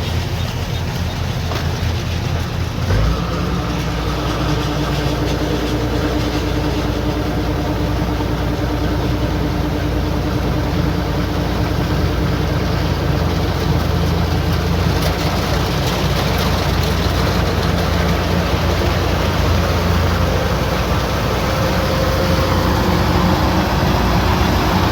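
Kubota combine harvester's diesel engine and machinery running steadily. There is a short knock about three seconds in, after which a steady hum joins the drone.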